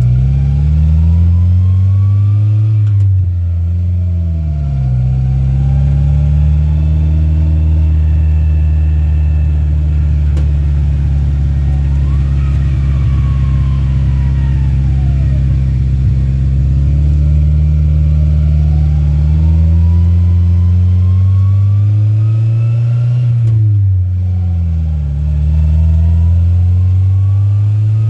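The rat rod truck's engine heard from inside the cab while driving. It climbs in pitch under acceleration and drops sharply at gear shifts, about three seconds in and again near the end, with a steady cruise in between.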